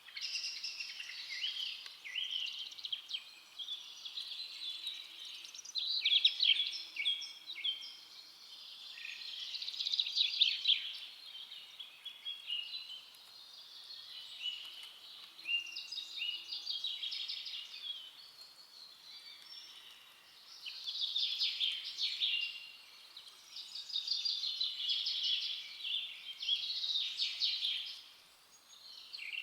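Forest birds singing: a continuous chorus of high chirps and rapid trills that swells and fades every few seconds.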